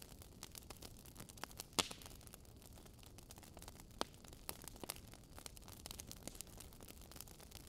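Wood fire crackling in a fireplace: irregular sharp pops and snaps over a faint hiss, with a louder pop about two seconds in and another about four seconds in.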